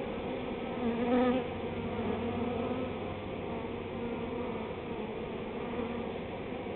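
Honey bee swarm buzzing steadily: a dense hum of many bees in flight, swelling briefly about a second in as bees pass close.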